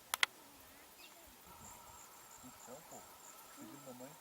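Insects chirping steadily, with a high pulsing trill. Two sharp clicks come in quick succession just after the start.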